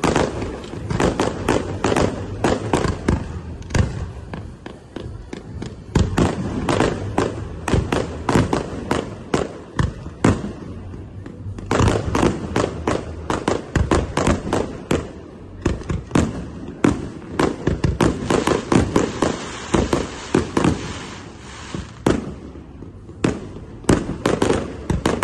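Fireworks display: shells bursting in rapid succession, several bangs a second, easing briefly a few times before the barrage picks up again.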